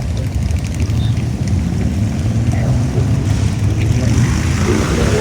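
A large group of motorcycles rumbling past together in a continuous procession, their engines blending into one steady low drone.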